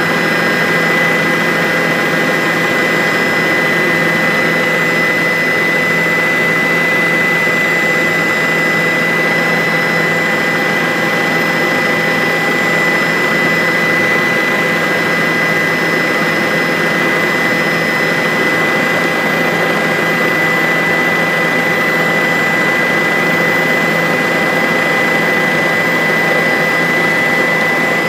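Bell 407 helicopter in steady flight: its single turbine engine and rotor run at an unchanging pitch, a constant high whine over an even rush of noise.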